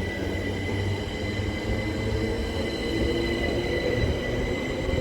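A Great Western Railway Class 387 electric multiple unit, two units coupled, pulling out and gathering speed. Its wheels and running gear rumble over a steady electric whine, with a mid-pitched drone rising slowly as it accelerates.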